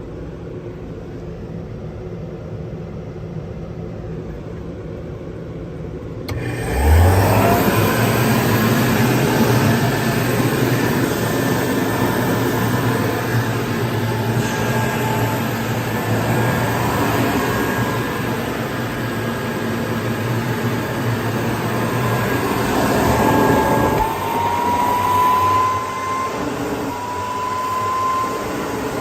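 Makita model 411 dust collector switched on about six seconds in, its motor spinning up and then running steadily with a loud rushing airflow. A whining tone rises in pitch over the last few seconds.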